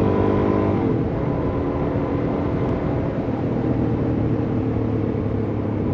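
Suzuki DR-Z400S single-cylinder four-stroke engine running under a rider on a trail; the revs drop about a second in and it then runs steadily at lower revs.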